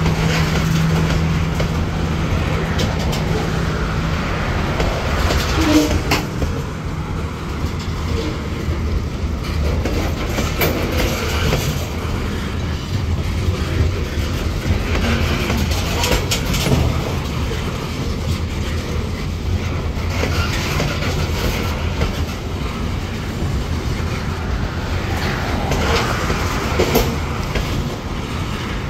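Covered hopper cars of a CSX grain train rolling past on a grade, steel wheels clicking and clanking over the rail joints over a steady low rumble. A low steady hum drops away about four seconds in.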